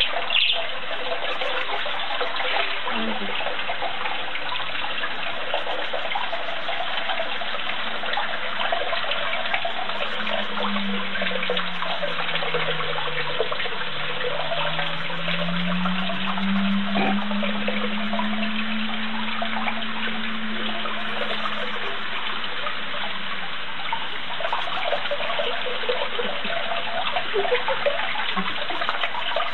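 Steady rush of running water. Midway through, a low tone slides down and back up over several seconds.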